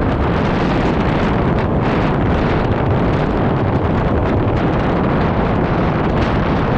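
Strong wind buffeting the microphone on a moving scooter: a loud, steady rushing noise that drowns out everything else.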